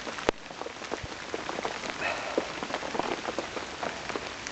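Heavy rain falling steadily, a dense patter of individual drops striking close by, with one sharper drop-hit just after the start.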